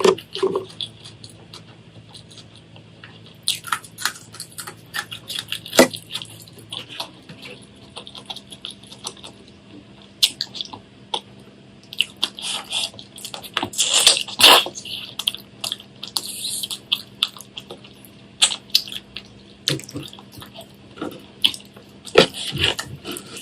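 Close-miked eating: wet chewing, lip smacking and slurping in short, irregular bursts, with a denser run of slurping about two-thirds of the way through.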